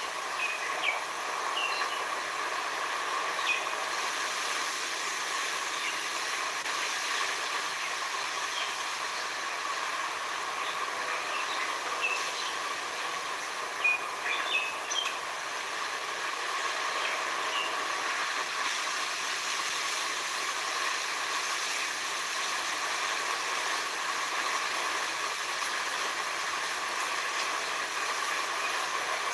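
Steady hissing sea-and-forest ambience, with short bird chirps scattered over it, most of them near the start and again about halfway through.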